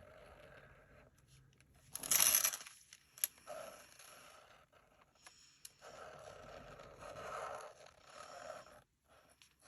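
Glitter marker tip scraping across card stock in a series of writing strokes. About two seconds in comes a louder, short scrape.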